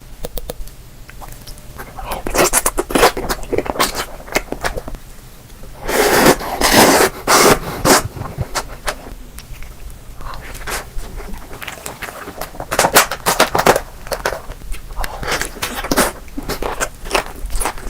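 Close-miked eating sounds: bites and crunchy, crackling chewing in irregular bursts, loudest and densest about six to eight seconds in.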